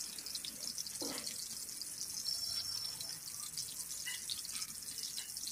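Cornflour-coated soya chunks frying gently in oil over a low flame: a steady fine sizzle with small scattered pops.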